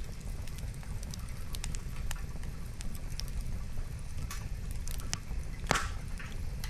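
Wood fire crackling: scattered sharp pops and snaps from burning logs, with one louder pop near the end, over a low steady rumble.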